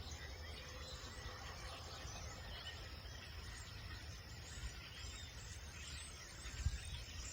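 A flock of small birds chirping and twittering together, faint and overlapping, over a low background rumble.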